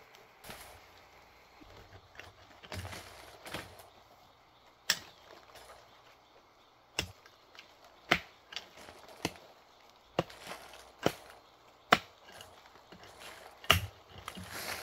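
A series of about eight sharp chopping strikes, spaced irregularly roughly a second apart, with softer rustling in the first few seconds.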